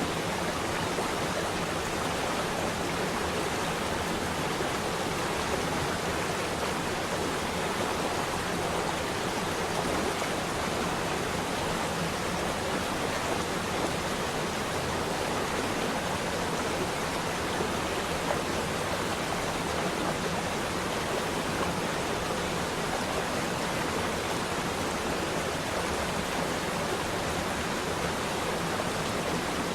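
Flowing water rushing steadily, a continuous stream or small waterfall.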